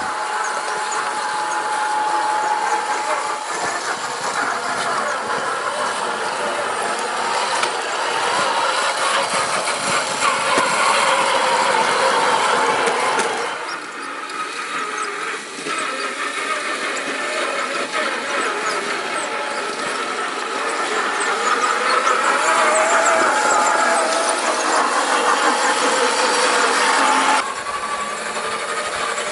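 Motor and gearbox of a 1/6-scale RC Willys Jeep whining as it drives off road, the pitch wavering up and down with the throttle, over a steady rough noise of the drivetrain and tyres. The sound changes abruptly about halfway through and again near the end.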